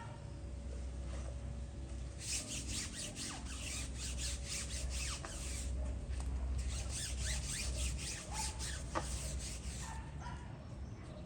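Hand rubbing on a car's body panel in two runs of quick, repeated wiping strokes, over a low steady hum.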